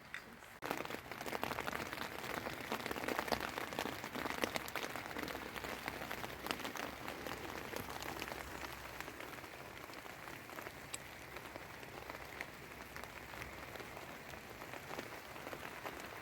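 Heavy rain falling, a dense crackle of countless drops that starts suddenly about half a second in and eases slightly later on.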